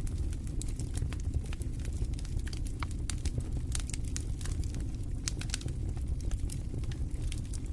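Wood fire in a fireplace crackling, with frequent irregular sharp pops and snaps over a steady low rumble of the burning.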